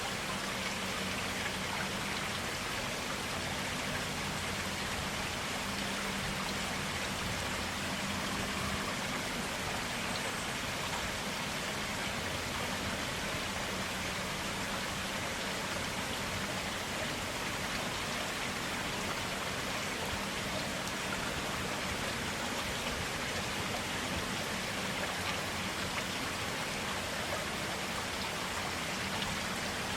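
Clear stream water flowing steadily, a continuous even rush of water with no breaks or changes.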